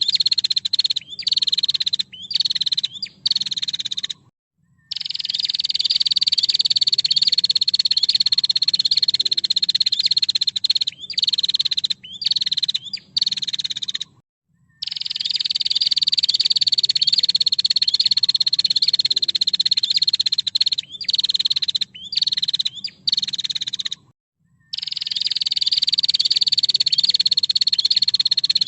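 Female prenjak (prinia) calling: a long, rapid buzzing trill at a high pitch that falls slightly as it starts, broken by short gaps, the same phrase repeating about every ten seconds.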